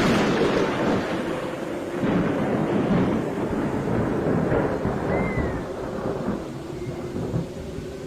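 A thunderclap breaking suddenly, then rumbling and slowly fading over several seconds, with rain, over a steady low hum.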